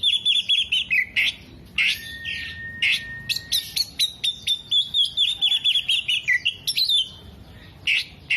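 Oriental magpie-robin singing loudly in a fast, varied run: quick trills of repeated notes, sharp chips, and one long steady whistle about two seconds in.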